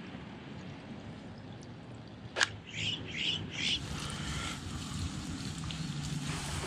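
A sharp click about two and a half seconds in, then a bird chirping three quick times, over faint outdoor background noise.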